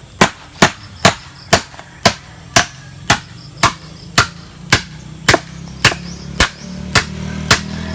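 Hammer driving a long nail, with steady, evenly spaced blows about two a second.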